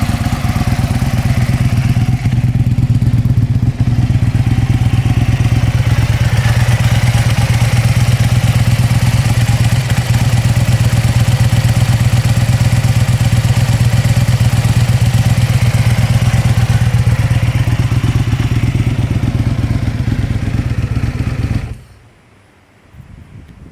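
Aprilia Tuono 1000R's 60-degree V-twin engine idling steadily, then switched off and stopping abruptly near the end.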